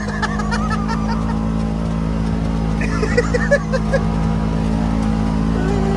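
Polaris Ranger 1000 side-by-side running steadily under way in snow, its twin-cylinder engine giving an even drone, with a few short high chirps over it about three seconds in.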